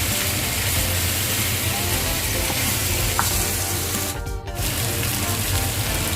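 Food sizzling as it fries in a hot pan, steady throughout apart from a brief dip about four seconds in.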